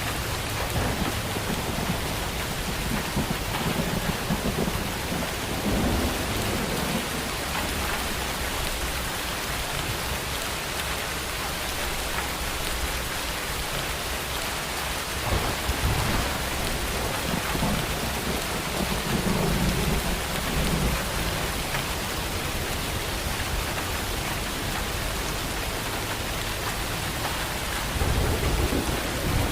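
Steady rain falling, with rolling thunder rumbling low three times: in the first few seconds, around the middle, and again near the end.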